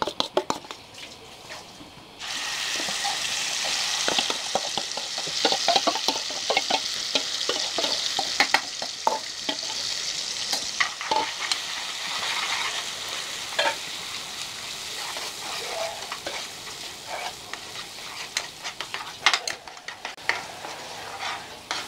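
Spiced gravy paste hitting hot oil in a pan starts sizzling suddenly about two seconds in and keeps frying steadily. A metal spatula stirs and scrapes through it, with scattered clinks against the pan and bowl.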